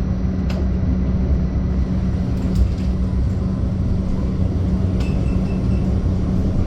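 Modern tram running between stops, heard from inside the car: a steady low rumble of wheels on rail with a constant motor hum. There are two sharp clicks, about half a second and five seconds in, and a few faint short pips just after the second.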